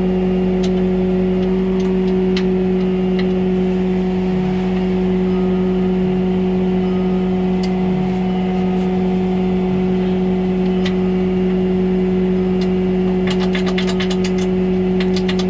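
Tow truck's engine running at a steady speed with a constant hum. A quick run of clicks near the end.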